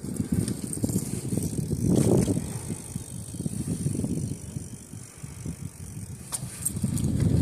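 A bicycle rolling along a trail, with rattling and many small ticks over a low rumble that swells about two seconds in and again near the end.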